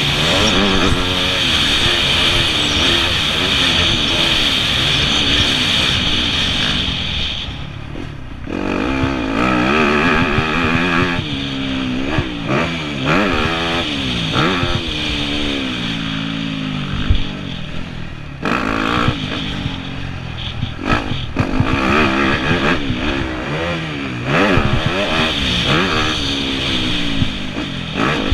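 Yamaha YZ250F four-stroke single-cylinder motocross engine revving up and down as the throttle is opened and shut, rising through the revs, then dropping off. The engine falls away briefly about eight seconds in, and a few sharp knocks from the bike's suspension and chassis come through, one loud one near seventeen seconds.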